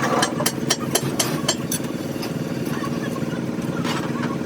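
An engine running steadily at idle, with a quick run of sharp metallic knocks in the first second and a half.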